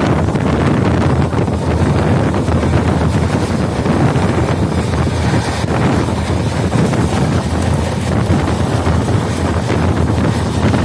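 Strong wind buffeting a phone microphone held out of a fast-moving express train coach, mixed with the steady rumble of the coach running over the rails.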